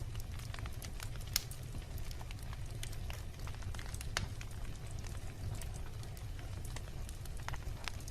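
Wood bonfire crackling, with irregular sharp pops and snaps, two louder ones about a second and a half and four seconds in, over a steady low rumble from the burning.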